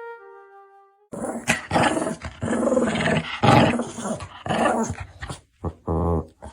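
A dog growling and grumbling in a long run of loud, rough vocal sounds, breaking into a few shorter, deeper growls near the end.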